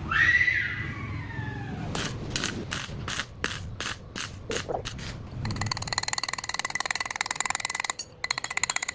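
Mechanical workshop sounds: a brief squeal that falls in pitch, then a run of sharp clicks about two or three a second, then fast continuous clicking like a ratchet.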